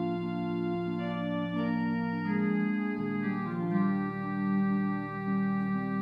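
Organ playing slow, sustained chords that change about once a second over held bass notes.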